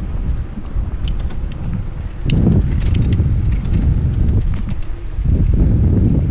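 Wind buffeting a helmet-mounted GoPro on a moving bicycle, a low rumble that surges in gusts, with scattered sharp clicks and rattles from the bike.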